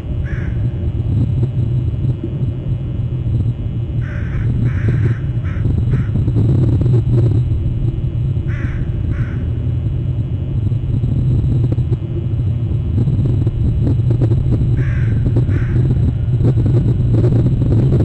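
A steady low rumble throughout, with a crow-like bird cawing in short groups: one call at the start, four calls four to six seconds in, two near nine seconds, and two near fifteen seconds.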